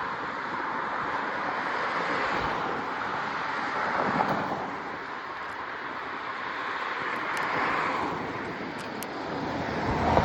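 Rushing wind and road noise from a bicycle ride, swelling and easing every few seconds.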